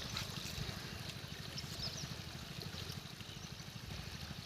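Faint trickling, flowing water over a low steady rumble.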